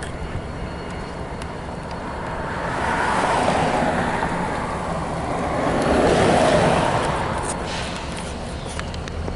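Road traffic: two vehicles pass one after the other, the tyre and engine noise swelling and fading about three seconds in and again around six to seven seconds.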